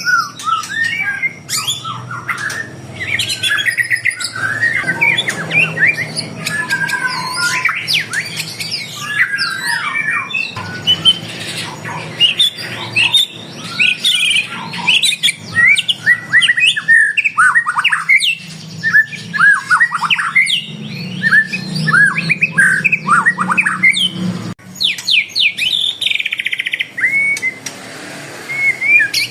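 Many caged songbirds chirping, whistling and squawking at once, short quick calls overlapping without a break.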